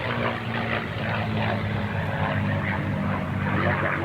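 P-51 Mustang's propeller-driven V-12 engine droning steadily in flight, its engine note holding level with only a slight shift in pitch.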